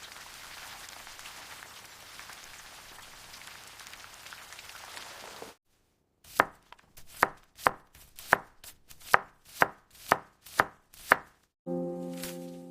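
A steady hiss for about five seconds, then a kitchen knife chopping on a cutting board: about nine sharp strikes at roughly two a second, in cutting the cabbage for momo filling.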